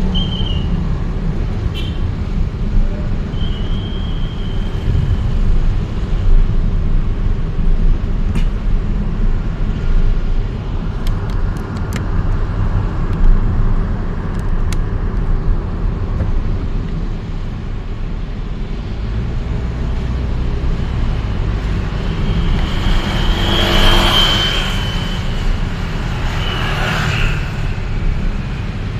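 Vehicle and road traffic noise recorded while travelling through city streets: a steady low rumble, a few brief high squeaks and clicks, and a louder rush of a vehicle passing close about 23 seconds in.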